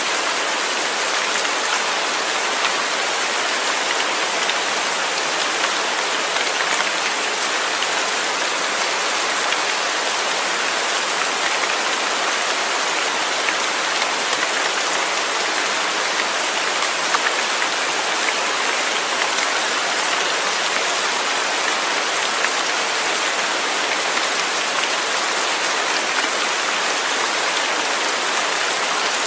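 Steady heavy rain falling, a dense even hiss with fine drop patter.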